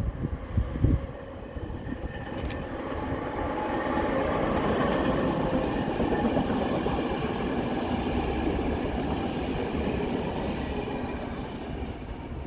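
A passenger train passing, its rolling noise building to a peak about midway and then fading. Gusts of wind buffet the microphone in the first second.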